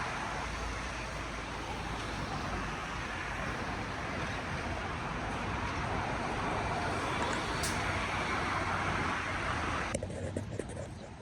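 Road traffic noise: a steady hiss of vehicles and tyres on the street, which drops off abruptly about ten seconds in.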